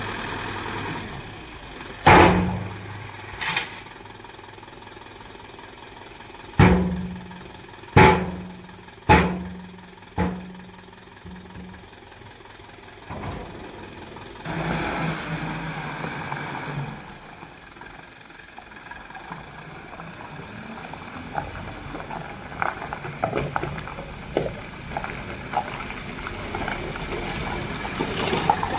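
Six loud bangs in the first ten seconds, each ringing out briefly over a running heavy diesel engine, then a stretch of rattling and scattered small clicks.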